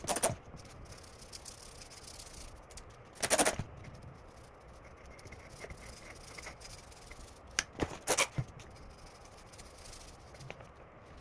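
A few short clatters and knocks from oil-filter parts being handled: one at the start, a louder one about three seconds in, and a quick cluster around eight seconds in.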